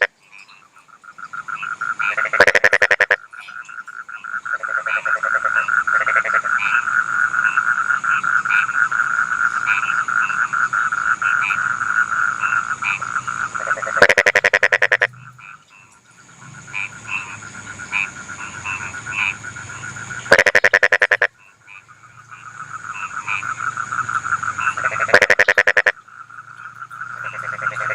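Rice-field frogs calling in a chorus, a steady fast-pulsing trill with scattered shorter calls above it. Four times, a frog close by gives a loud call of rapid pulses lasting about a second.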